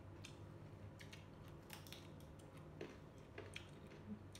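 Quiet crunching of raw vegetables being bitten and chewed: a few short, crisp crunches spread out over a low steady hum.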